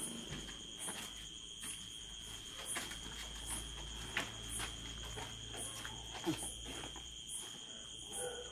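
Crickets trilling steadily, with soft scattered footsteps from a group walking past. A brief falling squeak comes about six seconds in.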